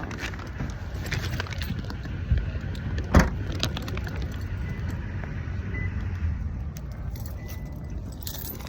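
Low steady rumble of a car, with keys jangling and scattered clicks, and one sharp knock about three seconds in.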